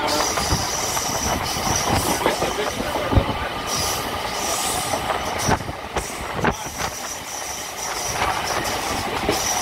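Local passenger train running along the track, its wheels clacking over rail joints in irregular knocks, with a thin high whine that drops out for a couple of seconds midway.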